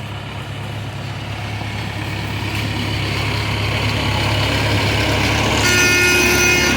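A train approaching, its engine rumble growing steadily louder. Near the end a horn begins to sound in one long held blast.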